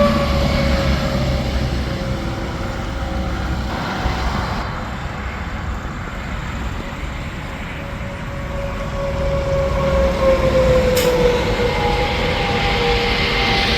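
Tractor-trailers passing at highway speed over steady interstate traffic noise. Their tire whine drops in pitch as they go by, once near the start and again about ten seconds in.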